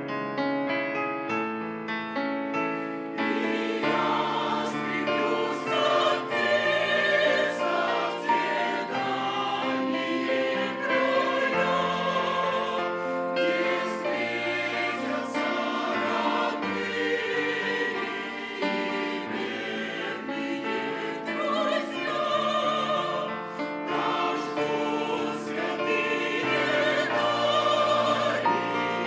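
Church choir singing a hymn in several voices with piano accompaniment. The choir comes in about three seconds in, after a short piano passage.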